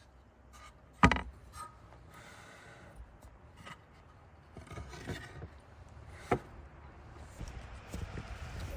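Handling and work noise: a sharp knock about a second in and another past the middle, with smaller clicks and stretches of scraping or rubbing between them.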